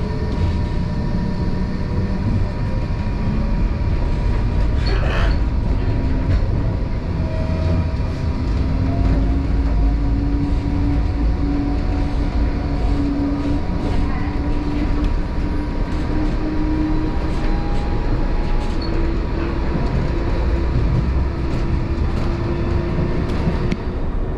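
Tram running on its rails with a steady low rumble. A motor whine slowly rises in pitch, and there are occasional short clacks, the clearest about five seconds in.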